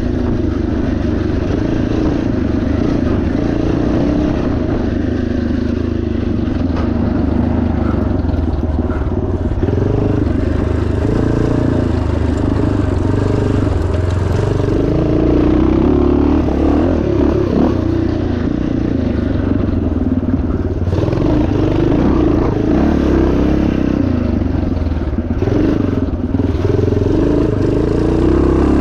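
Yamaha TT500's single-cylinder four-stroke engine running hard off-road, its revs rising and falling continuously with the throttle.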